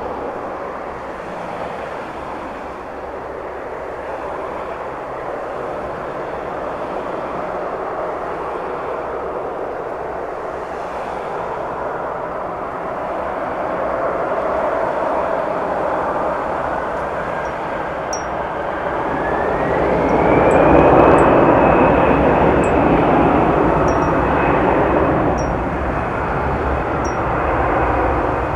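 Jet airliner engines running up, a steady roar with a whine that rises in pitch about two-thirds of the way through and then holds high, as the engines spool up to takeoff thrust; the sound is loudest just after the whine levels off.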